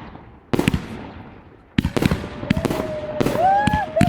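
Fireworks going off: one bang about half a second in that dies away, then from about two seconds a fast run of bangs and crackles with a wavering whistle over them.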